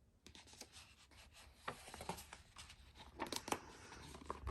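Paper rustling and scraping as a picture book's page is handled and turned, a run of short scratchy strokes that grows busier in the second half.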